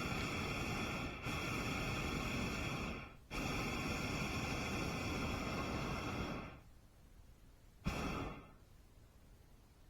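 Hot air balloon's propane burner firing in a long blast with two brief breaks, then shutting off about six and a half seconds in. A short burst follows about a second later.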